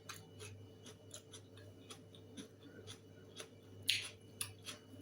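Faint, irregular small clicks and light taps, a few each second, over a steady low hum.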